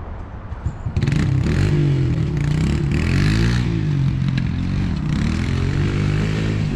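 A motor vehicle engine running, then getting louder about a second in and revving, its pitch rising and falling several times.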